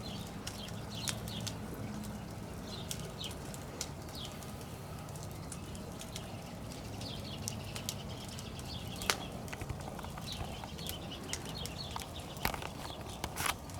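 Wood campfire crackling, with scattered sharp pops (the loudest about nine seconds in and again near the end) over a steady low hum. A few faint high chirps come in between.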